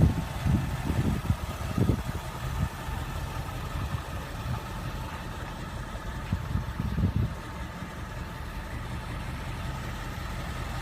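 2015 Ford Mustang GT's 5.0-litre Ti-VCT V8 idling steadily, with uneven low rumbles in the first few seconds and again about seven seconds in.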